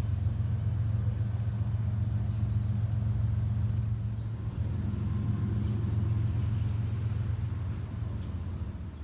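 Steady low rumble of a vehicle on the move, easing off slightly near the end.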